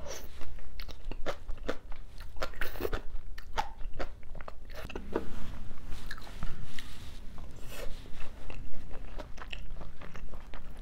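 Close-miked chewing of spicy seafood jjim with bean sprouts and noodles: many short, wet crunches and clicks of the crisp bean sprouts being bitten, with noodles slurped in at the start.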